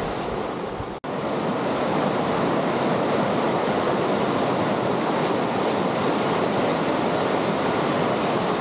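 River rapids: steady rushing white water, cut off for an instant about a second in, then continuing.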